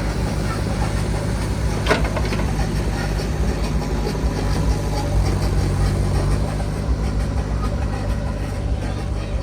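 Heavy diesel machinery engine running steadily, with a single sharp knock about two seconds in.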